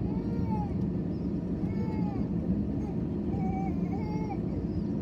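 Steady low rumble of an airliner cabin, with several short, high, rising-and-falling cries over it.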